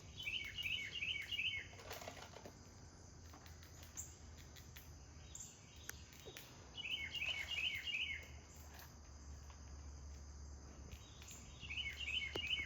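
A bird calling in three bursts of five or six quick, clear, down-slurred notes, a few seconds apart. A steady insect drone runs underneath.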